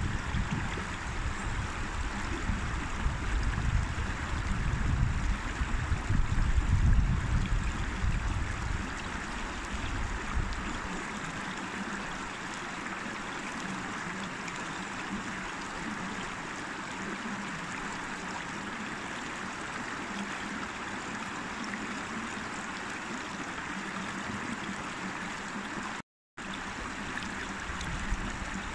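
River water rushing and babbling steadily. A low rumble sits under it for the first ten seconds or so, then fades, and the sound cuts out completely for a split second near the end.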